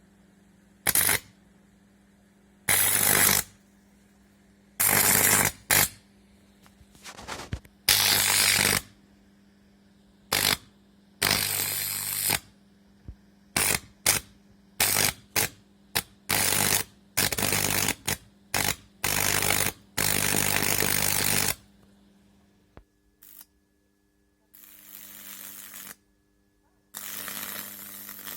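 High-voltage arcing from a microwave oven transformer: a harsh electrical buzz switched on and off in repeated bursts, most lasting a second or two and one about five seconds, with a steady low mains hum between them.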